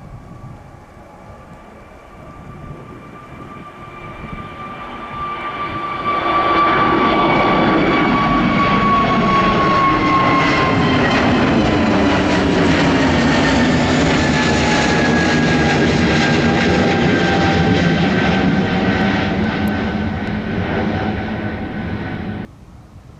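An Airbus A320neo's twin turbofan engines at takeoff power as the jet takes off. The sound builds up to a loud, steady engine noise. A fan whine over it slides slowly down in pitch, and the sound cuts off abruptly near the end.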